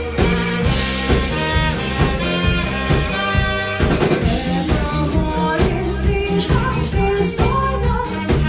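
Pop band playing live, with a drum kit and bass keeping a steady beat under a melody line.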